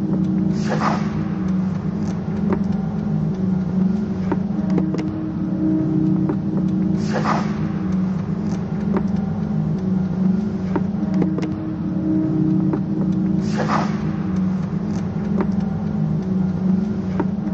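A low, steady drone with a hissing sweep that swells and fades about every six and a half seconds, three times, over scattered faint clicks. It reads as a repeating ambient soundscape, like a rumble of traffic looped into a soundtrack.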